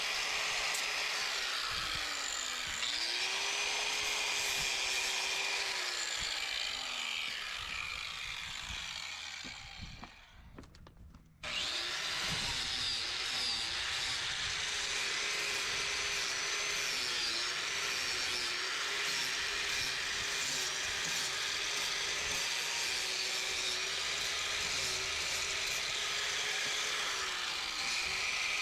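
Angle grinder with a flap disc grinding sharp corners off welded metal brackets, its motor whine sagging and recovering as it bites. A third of the way through it is switched off, winds down to a brief stop, and starts again abruptly.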